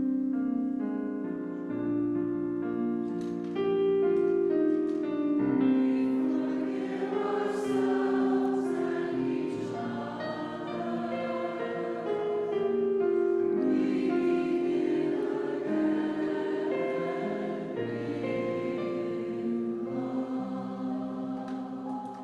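A choir singing slowly in sustained chords that shift from one to the next.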